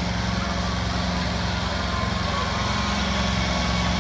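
Small engine of the vehicle towing a cow train, running steadily at an even speed.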